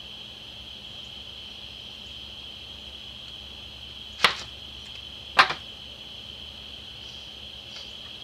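Two short, sharp, loud bursts about a second apart over a steady high-pitched whine.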